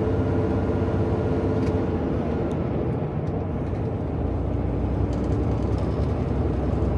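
Inside a semi-truck's cab while driving at road speed: a steady diesel engine drone with road and tyre noise.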